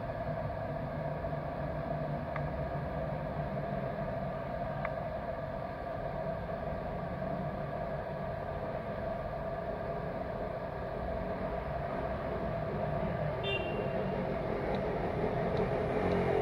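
2013 Renault Fluence's engine idling steadily, heard from inside the cabin. A brief high electronic beep sounds about 13 seconds in.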